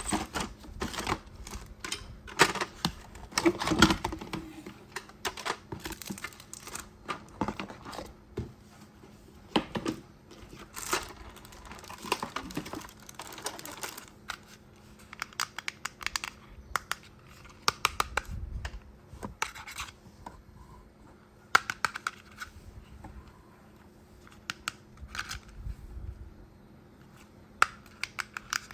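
Hands handling toy packaging and plastic parts: irregular clicks, scratches and crinkling, with short tearing sounds.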